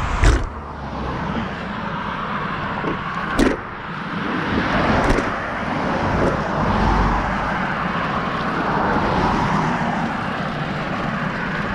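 Steady road traffic noise, a vehicle passing and swelling to its loudest around the middle, with three sharp knocks in the first half.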